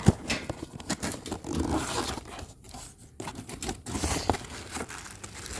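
Packaging being handled and torn open: irregular rustling, crinkling and tearing with small clicks and knocks.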